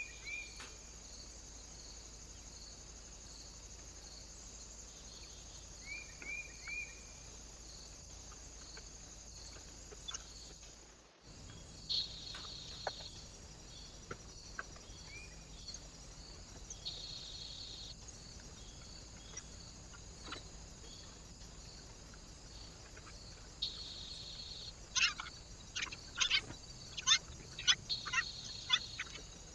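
Small birds at a feeder giving short, high chirps over a steady high-pitched hiss. A quick run of sharp, short chirps and ticks comes near the end.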